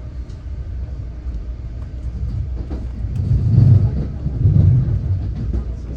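Passenger train running on the rails, heard from inside the car: a steady low rumble that swells louder twice, about three and a half and four and a half seconds in.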